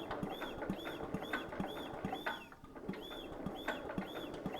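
A 16 hp single-cylinder flathead engine with its cylinder head off, being turned over so the valves open and close. Each turn brings a short high squeak and a low knock, a little over two times a second.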